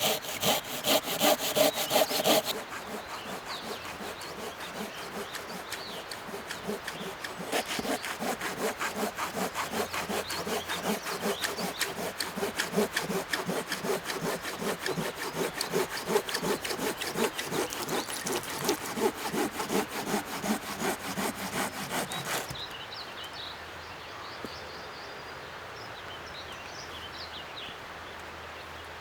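Hand saw cutting through a firewood log with steady back-and-forth strokes, which grow louder a few seconds in and stop well before the end.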